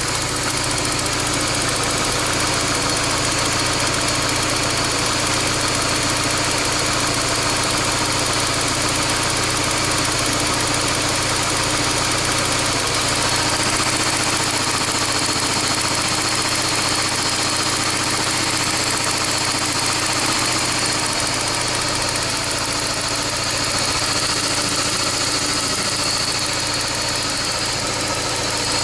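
Peugeot 406 Coupé 2.0-litre four-cylinder petrol engine running steadily at idle, with a noise that the owner suspects comes from the hydraulic lifters.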